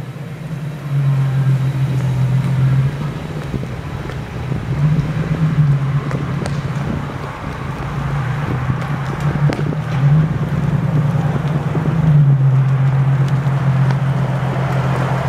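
2009 Nissan 370Z's 3.7-litre V6 running through an AAM short tail exhaust, a steady low exhaust note held at a near-constant pitch, with small swells in level and a little more noise in the last few seconds.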